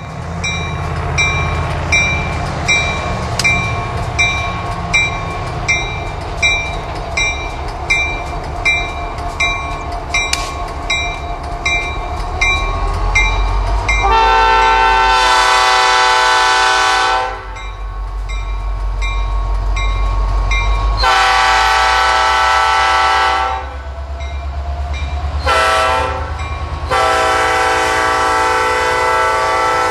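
Reading & Northern EMD SD-50 diesel locomotive rolling past with a low engine rumble and a steady clickety-clack of wheels over rail joints, then sounding its Nathan five-chime air horn about halfway through in the grade-crossing pattern: long, long, short, long.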